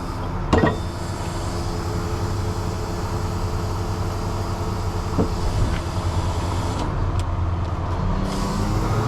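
Heavy truck diesel engine running steadily, with a couple of sharp metallic knocks about half a second and five seconds in. Near the end the engine speeds up.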